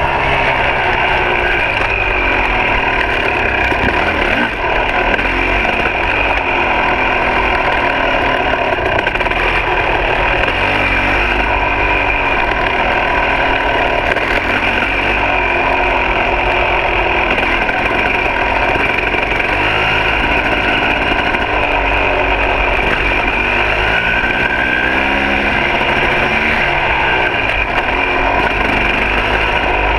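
Two-stroke single-cylinder engine of a 2006 KTM 300 XC dirt bike under way on a trail. The revs rise and fall every few seconds as the throttle is opened and closed.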